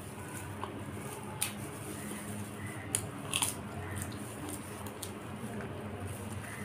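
Close-miked chewing of crisp papad, with a few sharp crunches about one and a half, three and three and a half seconds in, over a low steady background hum.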